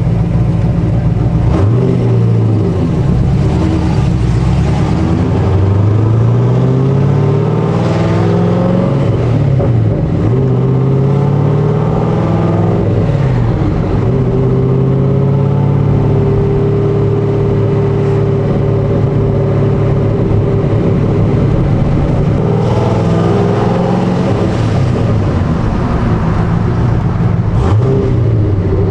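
Corvette C6 V8 with a Stage 3 BTR camshaft, long-tube headers, X-pipe and dual exhaust, driven hard: the engine note climbs and drops back several times as it accelerates and shifts, with a steadier stretch in the middle.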